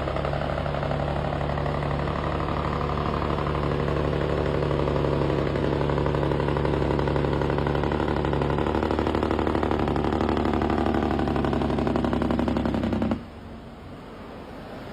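Logging truck's diesel engine running, a steady drone that rises a little in pitch and then cuts off abruptly near the end, leaving a quieter rumble.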